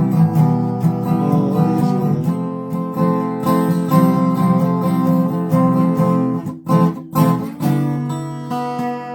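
Acoustic guitar strumming chords in an instrumental passage of a song, with two brief breaks in the strumming a little past the middle.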